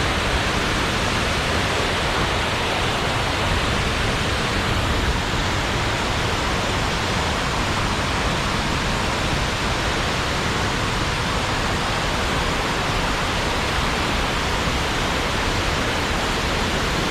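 Waterfall at close range: a steady, unbroken rush of heavily falling water.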